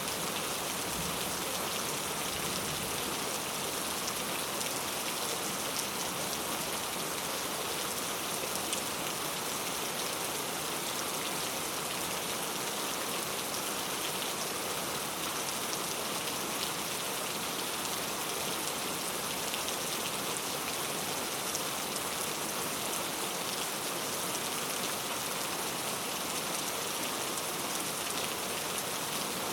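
Steady rainfall, an even hiss of rain on surfaces with occasional single drops ticking through.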